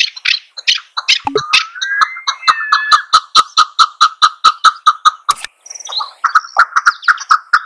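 Female chukar partridge calling, a rapid series of short 'chuk' notes, about five a second. A sliding tone runs under the calls in the first half, and a sharp click comes about two-thirds through.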